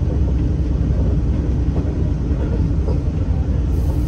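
Steady low rumble and running noise of a V/Line diesel passenger train, heard from inside the carriage as it travels.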